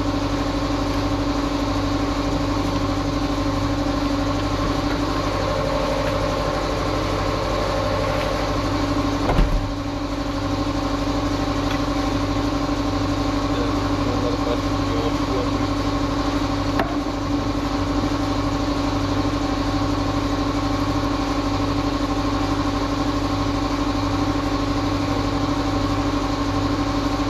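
Engine idling steadily, with a single knock about nine seconds in and a lighter knock a few seconds later.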